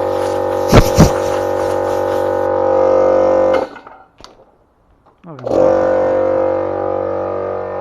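Ridgid circular saw motor running with a steady whine; the trigger is let go about three and a half seconds in and the blade spins down to near silence, then the saw is started again and spins up about five seconds in. Two sharp knocks come about a second in.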